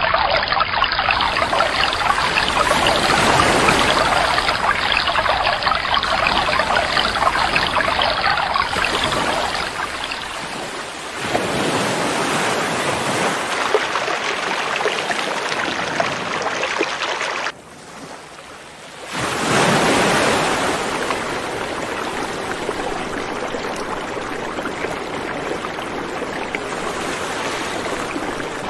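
River water rushing steadily, a dense even noise. It shifts abruptly in loudness and character twice, with a short quieter stretch about two-thirds of the way through, as the recording cuts between stretches of flowing water.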